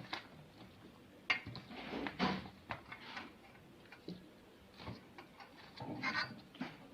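Chicken and potato pieces being shifted by hand in a baking tray: scattered soft knocks, clinks and scrapes.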